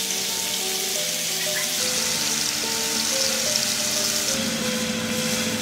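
Pieces of meat sizzling as they fry in a metal pot over a wood fire, a steady hiss. Background music plays along with it.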